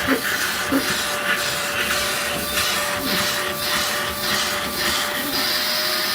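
Steady rushing noise with a thin, constant hum running through it.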